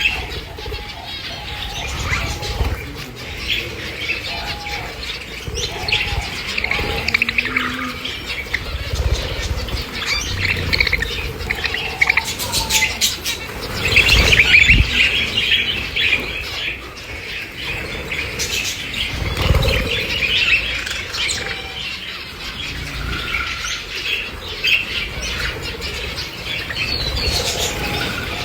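Many lovebirds chirping at once in a continuous chatter of high, rapid calls, busiest about halfway through, with a few low thumps mixed in.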